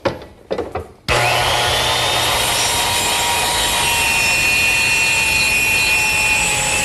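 Small circular saw switched on about a second in, after a few short knocks, then cutting a plywood panel to length. A steady high tone rides over the noise of the cut.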